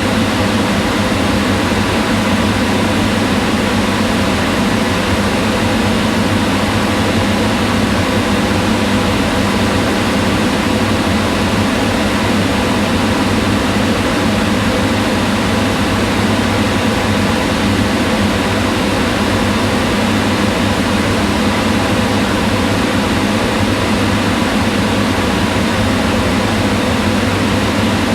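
Kitchen range hood exhaust fan running steadily: an even whooshing hum of moving air with a low motor drone and faint steady tones.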